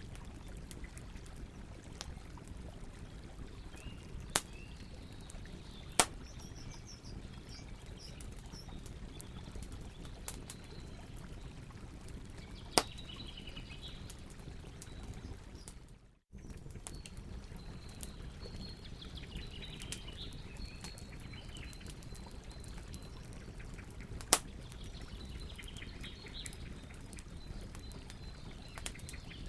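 Campfire crackling, with a handful of sharp single pops spaced several seconds apart, over a steady rush of river water; small birds chirp faintly now and then. The sound drops out for an instant about halfway through.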